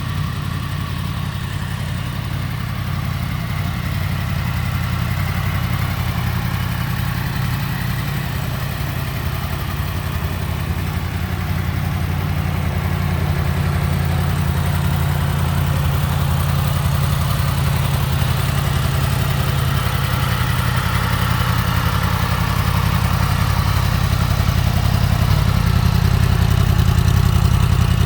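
2016 Yamaha MT-10's crossplane inline-four engine idling steadily, growing gradually louder toward the end.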